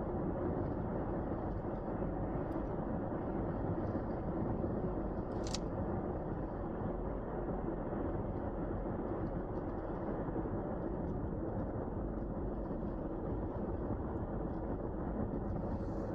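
Steady low rumble of a car driving on a snow-covered road, tyre and engine noise with no change in pace. A faint click comes about five and a half seconds in.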